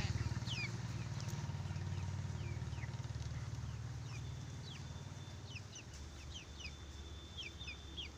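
Repeated short, high, falling chirps of small birds, with a thin high tone held from about halfway through. Under them is a low, steady rumble that fades away over the first half.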